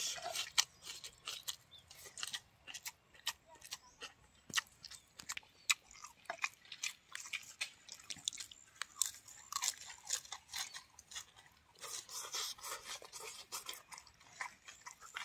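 Chewing and crisp crunching of food in the mouth, many short sharp crunches one after another, including bites of a fresh lettuce leaf.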